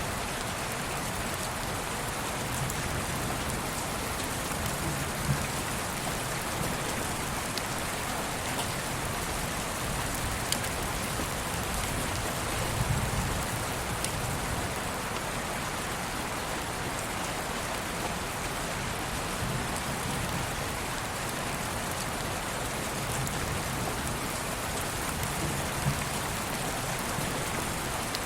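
Steady rain falling, an even hiss with a few sharper drop taps now and then.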